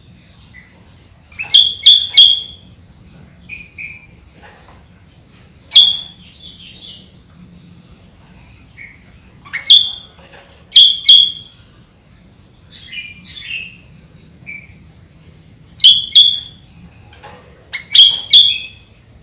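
Sooty-headed bulbul (kutilang) singing: loud, sharp whistled notes in quick clusters of two or three every few seconds, with softer warbling phrases in between.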